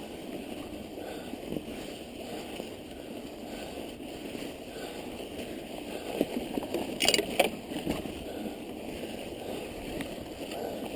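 A mountain bike ridden through snow, with a steady rushing noise from the ride and a couple of sharp clicks about seven seconds in.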